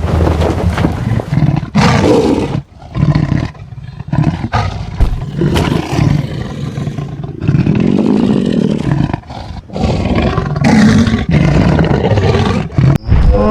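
A series of loud animal roars and growls, each lasting a second or two, with short breaks between them.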